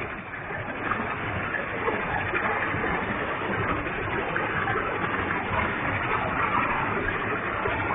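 A waterfall with heavy flow, its falling water making a steady rushing sound.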